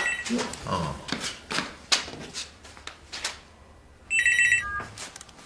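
A few light knocks and clicks, then about four seconds in a telephone rings with a short electronic trill of high tones.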